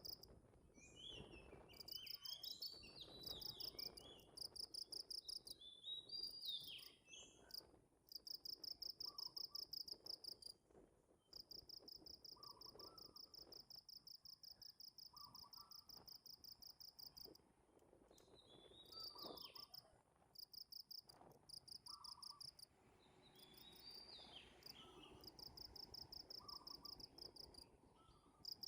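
Insects trilling in trains of rapid, even pulses that run for several seconds, stop and start again, with short bird chirps now and then.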